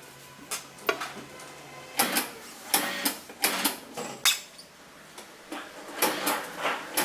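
Irregular sharp clicks and clatters, a dozen or so, of hard objects being handled, over a faint steady hum.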